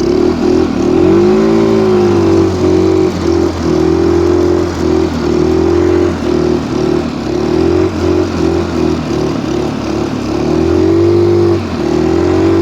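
Stels Kapitan Long snowmobile engine under throttle in deep snow, its pitch rising and falling and the note repeatedly breaking as the throttle is worked on and off, steadier for a stretch near the end.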